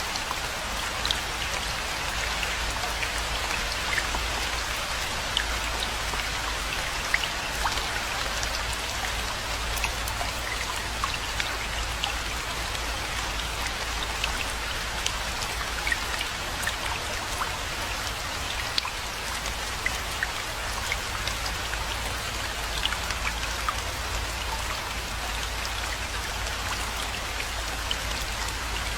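Steady rainfall: an even hiss with many individual drops ticking sharply throughout, over a constant low rumble.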